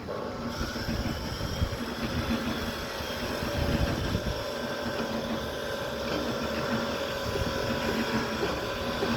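A machine running steadily, with a constant low hum and a higher whine over a rumbling background.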